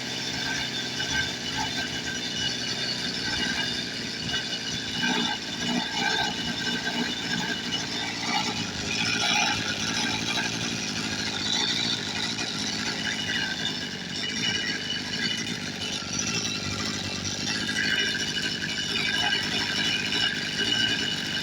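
Goped Sport's small two-stroke engine running steadily, set rich: the owner says it is running rich and needs leaning out at the carburettor.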